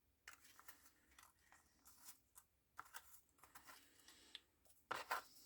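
Faint rustling and light taps of paper craft pieces being handled and shuffled, with a louder rustle near the end.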